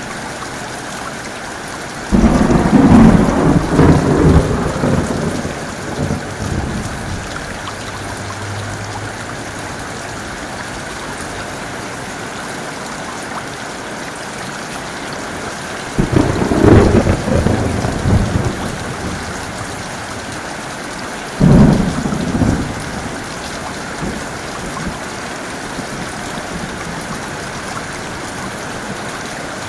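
Steady heavy rain with three claps of thunder. The first, about two seconds in, rumbles on for several seconds; another comes a little past halfway, and a shorter one follows a few seconds later.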